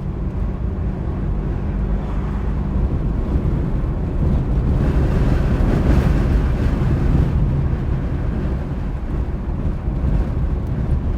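A car driving in high winds: steady engine and road noise with wind, swelling louder for a few seconds about halfway through.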